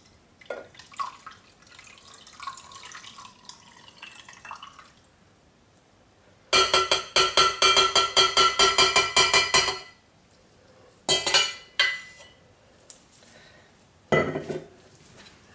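Lye solution pouring into melted oils in a crock pot, a faint liquid trickle. About six seconds in comes a rapid run of loud ringing clinks, about nine a second for some three seconds, then two shorter ringing knocks near the end, as of the emptied lye container being tapped out.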